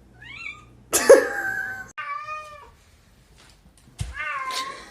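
A domestic cat meowing three times, the first meow the loudest.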